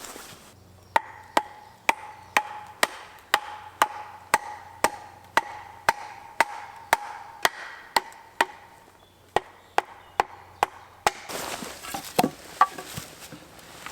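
Chopping blows on wood, even and steady at about two a second for some ten seconds, each a sharp knock with a slight ring. Near the end the blows stop and a rasping, scraping noise takes over.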